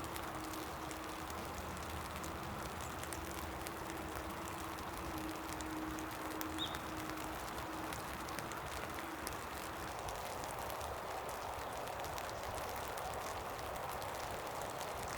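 Steady rain falling, with many small drop taps scattered through it. A faint steady hum runs underneath and stops about ten seconds in.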